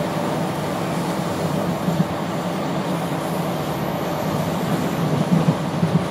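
Passenger train running along the line, heard from inside the carriage: a steady rumble of wheels on rail, with a few sharper knocks about two seconds in and near the end.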